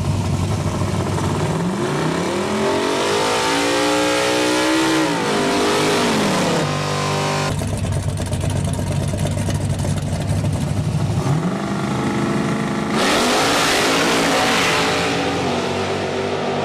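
Race car engines revving up and down several times, then settling briefly. About eleven seconds in an engine winds up sharply into a loud full-throttle launch, and its pitch then steps down as the cars pull away.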